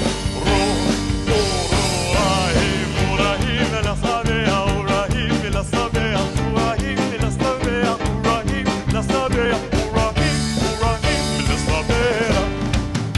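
Live band playing a hora medley, a fast Jewish circle-dance tune, over a quick, driving drum beat with a bending melody line on top.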